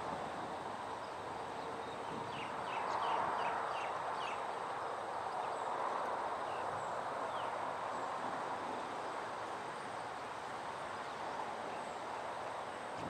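Steady outdoor rushing noise, with a small bird giving a quick run of about six short falling chirps a couple of seconds in and a few scattered chirps later.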